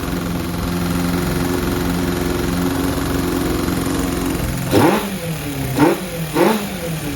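Honda CB550K's air-cooled inline four running steadily at a fast idle, then revved in three quick throttle blips in the last few seconds, each rising and dropping back. The engine is mid carburettor adjustment and reluctant to idle, which the owner takes for carbs out of sync.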